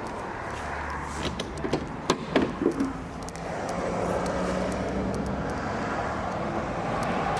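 SEAT Ateca car sounds at close range: a quick run of clicks and knocks, then a steady low hum that gets a little louder.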